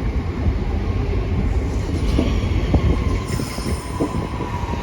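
A two-unit Class 323 electric multiple unit running into the platform: a steady low rumble of wheels on rail with scattered clicks, and a faint high whine that slowly falls in pitch in the second half.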